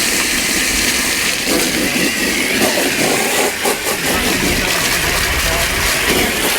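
An engine running steadily, with a constant hiss over it.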